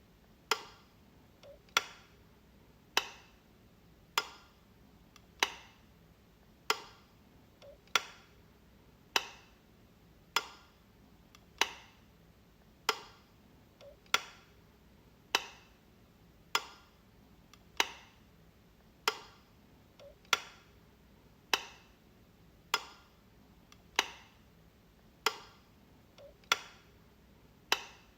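Wall light switch flicked repeatedly, one sharp click a little more often than once a second in a steady rhythm.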